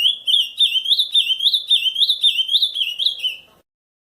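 Ultramarine grosbeak (azulão) singing the camaquã song type: a run of about a dozen quick whistled notes, each sliding up and back down, at roughly three a second, ending suddenly about three and a half seconds in.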